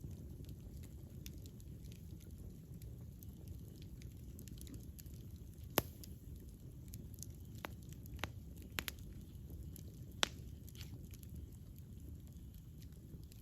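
Wood campfire burning with a low, steady rumble and scattered crackles and pops. The sharpest pops come about six and ten seconds in.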